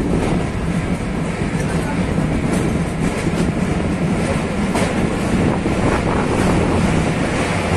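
Metre-gauge passenger train running, a steady rumble of wheels on the rails with a few faint clicks.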